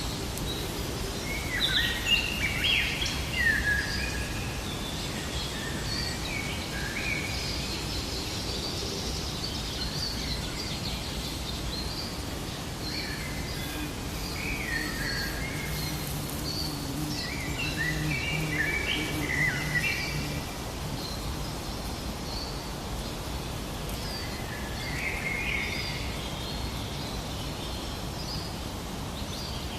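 Several birds chirping and calling in short bursts of rising and falling notes, coming in clusters a few times, over a steady outdoor background hiss.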